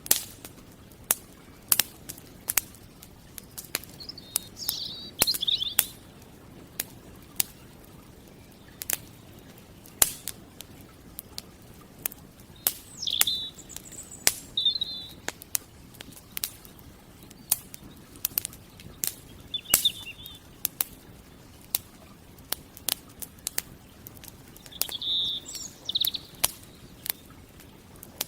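Wood campfire crackling, with frequent sharp, irregular pops and snaps. Over it, a bird gives short chirping calls several times.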